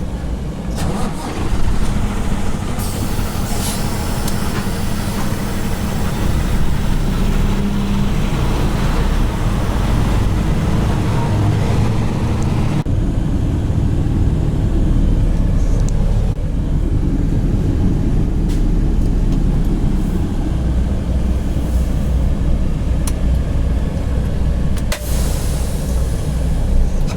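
Semi truck's diesel engine running with a steady low drone, along with a few short clicks and knocks.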